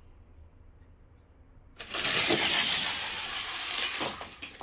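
Five die-cast toy cars are released and run down a plastic track about two seconds in, making a loud rushing rattle for about two and a half seconds. It ends in a few sharp clacks.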